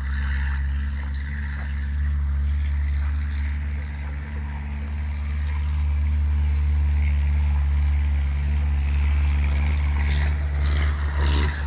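Tractor engine running, a steady low drone with no change in pitch.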